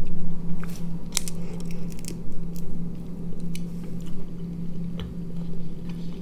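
Close-up biting and chewing of a baked rolled flatbread snack, with a few sharp clicks from the mouth and food, over a steady low hum.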